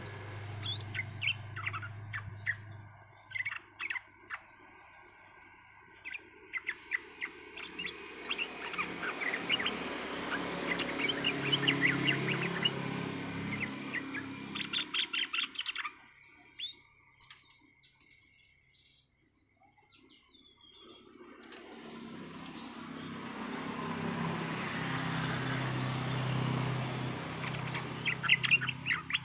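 Yellow-vented bulbul (trucukan) calling and singing: bursts of quick, sharp chirping notes with quieter gaps between them. Under the birdsong a low background noise swells and fades twice.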